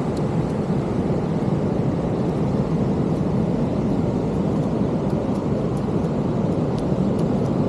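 Ocean surf from large waves breaking on the beach, a steady rushing noise with no let-up.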